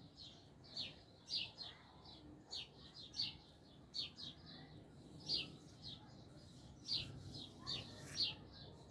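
Birds chirping: short, high, downward chirps repeating about twice a second without a break.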